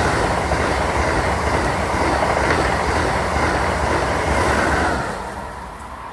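Amtrak Avelia Liberty high-speed trainset passing close by at speed, a loud steady rush of wheels on rail and air. The sound falls away quickly about five seconds in as the last car clears.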